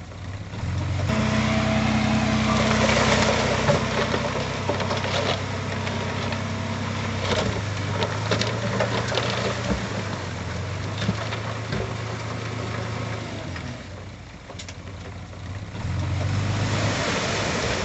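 Diesel engine of heavy earthmoving equipment running and working, swelling about a second in, easing briefly near the end and picking up again, with scattered clanks and rattles.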